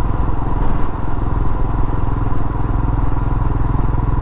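Royal Enfield Himalayan's single-cylinder engine running steadily as the motorcycle is ridden, a low, even rumble of firing pulses.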